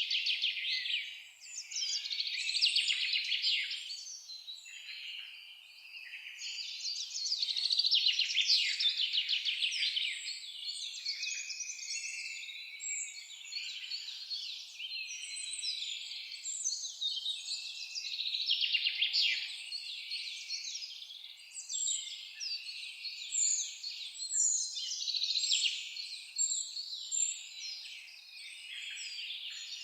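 A dense chorus of many songbirds singing at once: rapid trills and chirps overlapping without a break, swelling and fading in loudness.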